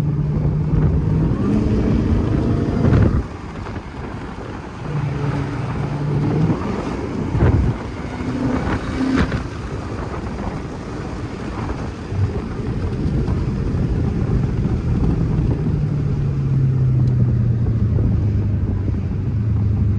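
Car engine and road noise heard from a moving car, with a low engine hum whose pitch shifts with speed and drops steadily over the last few seconds as the car slows. A few short knocks sound in between.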